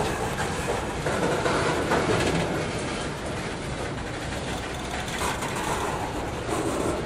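A train rolling past on the rails, a steady unbroken running noise of wheels and cars on track.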